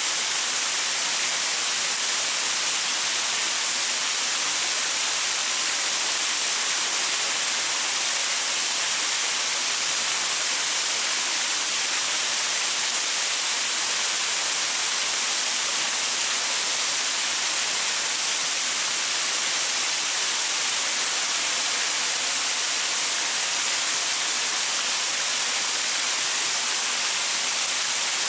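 Waterfall: water pouring steadily over rocks and boulders, a constant even hiss that is strongest in the high frequencies.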